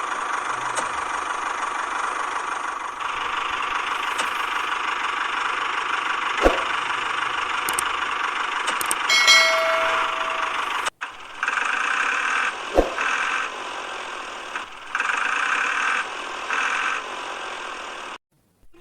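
Small DC hobby motor whirring steadily; after a cut about eleven seconds in it runs in short bursts, switched on and off several times. A brief pitched beep sounds about nine seconds in.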